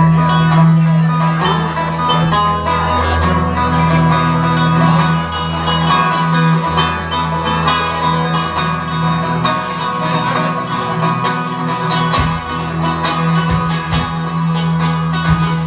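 Live acoustic band playing an instrumental passage: strummed guitars and banjo over a steady bass, in a bluegrass-country style.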